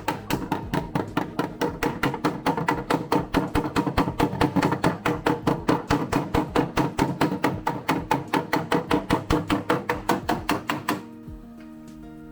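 Rapid, even hammer blows on a Toyota AE86's steel body panel, about five a second, each with a short metallic ring, working the raised high spot to shrink the stretched steel. The blows stop about eleven seconds in, leaving background music.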